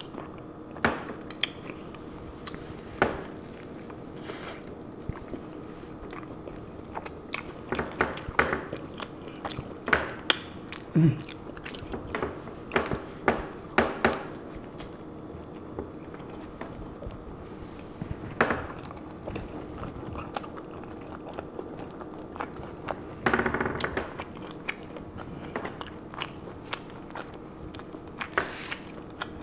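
Close-miked eating: a person biting and chewing a burrito, with irregular wet mouth clicks and smacks.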